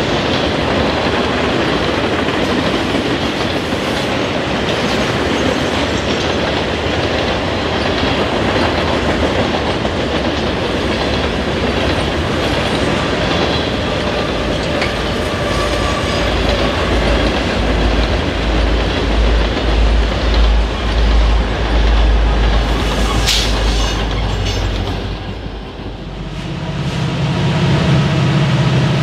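Freight train cars rolling past, with a steady clickety-clack of wheels over the rail joints and a heavy rumble building in the middle. About three seconds before the end it dies away and a steady low engine drone takes over.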